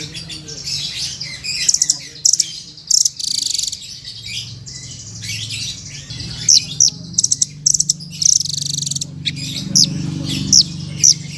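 Caged songbird singing a fast, varied song of buzzy rapid trills and sharp downward-slurred whistles, with a low steady hum underneath. It is a masteran recording, played so that other birds learn the song.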